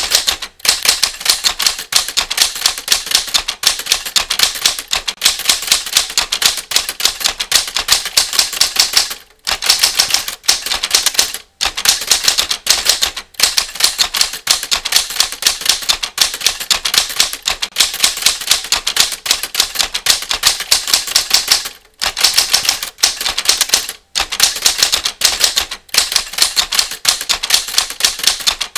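Typewriter keys striking in a fast, continuous run of clicks, broken by brief pauses every couple of seconds.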